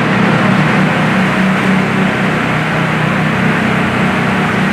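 Steady machinery din: a constant low hum with a hiss over it, from shop equipment running.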